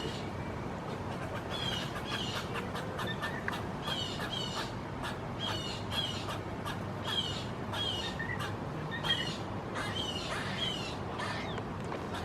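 Squirrels giving their alarm call: short, harsh barks, mostly in pairs, repeated about every second and a half.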